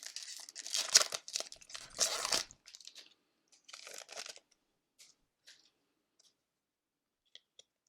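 Hockey card pack wrapper being torn open and crinkled, loudest in the first two and a half seconds, followed by a lighter rustle and a few faint ticks as the cards are handled.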